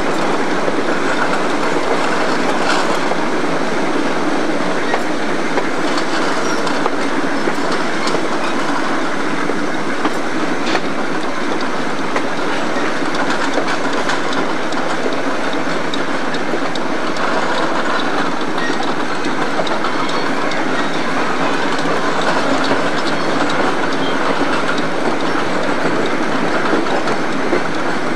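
Steam train hauled by a Shay locomotive, heard from an open-sided car while rolling along: a steady noise of wheels on the track with a few faint clicks.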